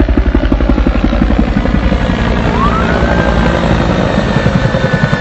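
Helicopter rotor beating steadily at about ten beats a second. A thin whine rises about two and a half seconds in and then holds.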